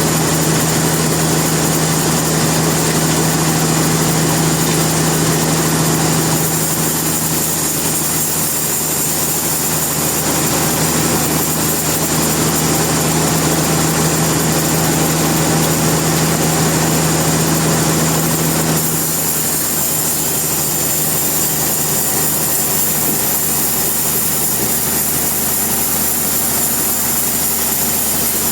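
Sawmill machinery running steadily under a loud motor hum. The hum cuts off suddenly about two-thirds of the way through, and the machinery noise carries on a little quieter.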